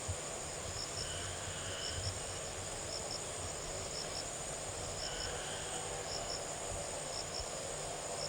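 Insects chirring steadily, with a short high-pitched double chirp repeating about once a second and a fainter, lower call every four seconds or so.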